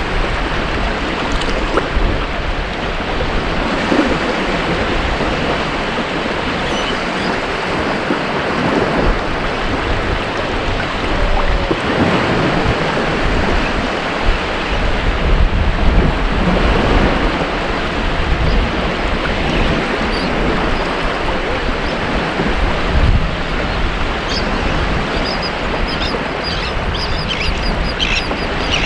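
Ocean surf breaking and washing up a beach: a continuous rushing of waves that swells and eases slightly, with faint high chirps near the end.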